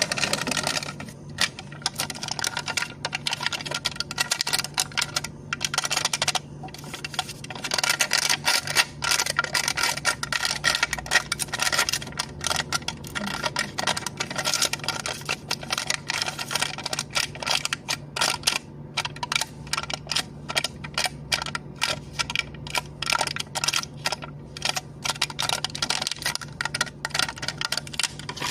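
A cup lid being tapped and clicked rapidly and continuously, many small clicks a second with brief pauses.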